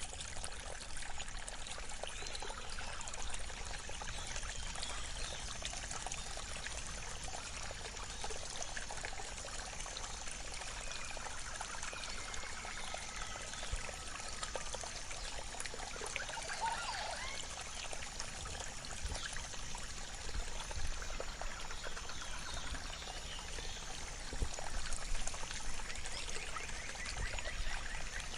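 Waterfall and river water rushing and splashing steadily.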